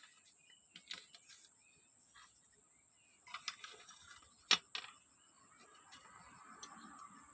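A handful of light clicks and taps from small carburetor parts and tools being handled on a brush cutter carburetor, the loudest a single sharp tap about four and a half seconds in.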